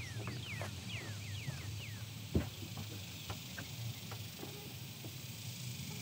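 A bird calling a quick series of short, falling whistled notes, then a single knock about two and a half seconds in, with light clicks and knocks from someone climbing into and moving about inside a fibreglass bass boat.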